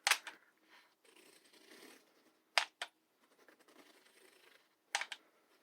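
Hot glue being run along cardboard pieces: a few sharp clicks, in pairs about two and a half and five seconds in, with faint rustling of cardboard between.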